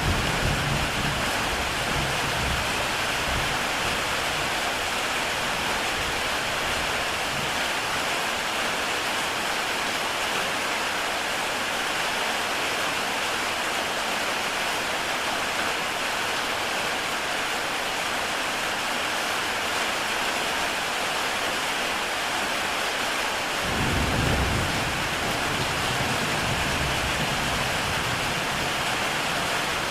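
Heavy rain falling steadily on a tile roof, an even hiss of many drops. A low rumble comes in sharply about three quarters of the way through and stays to the end.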